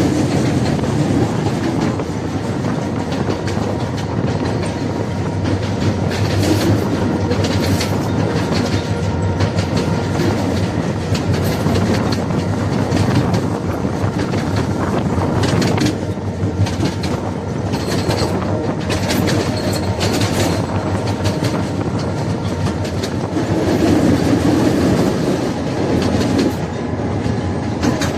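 A train running along the track, its wheels clicking steadily over rail joints, with faint wheel squeal at times.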